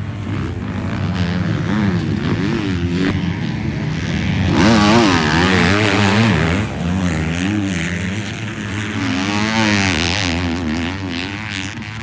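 Motocross bikes racing past on the track, their engines revving up and down through the gears and over the jumps, loudest about five seconds in.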